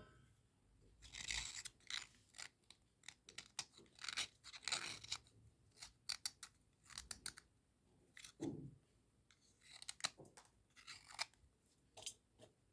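Dry cubical slate pencils being scraped and crunched in short, irregular strokes, a gritty chalky scratching with brief pauses between strokes.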